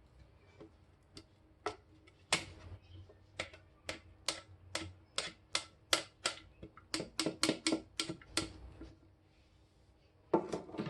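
A kitchen utensil knocking against a pot and bowl, about twenty sharp taps, coming faster near the end, as the hot, thick lemon pastry cream is scraped out of the pot into a container; a short louder clatter near the end.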